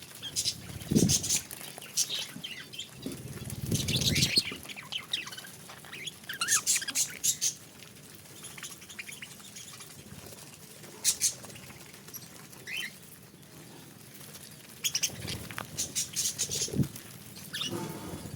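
Budgerigars chirping in short high calls, with a few bursts of wing fluttering and scattered sharp clicks.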